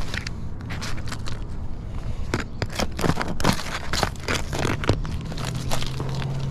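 Asphalt ridge cap shingles being pried up and torn off a roof, with irregular crackling, tearing and scraping strokes that grow busier about two seconds in.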